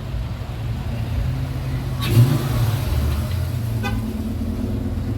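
Motor vehicle engine running close by, its low rumble swelling about two seconds in, with a short beep near the end.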